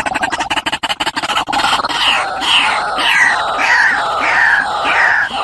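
White-breasted waterhen calling: a fast rattling run of clicks, then from about a second and a half in a series of repeated falling notes, about two a second.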